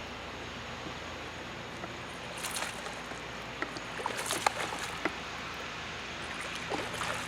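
Irregular splashing and lapping of water, in short clusters over a steady rush of flowing river water.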